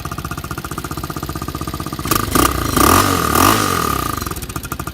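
Water-cooled Chinese 250cc ATV engine idling through its stock exhaust, muffled. About two seconds in, the throttle is blipped twice and the revs rise and fall, then it settles back to idle.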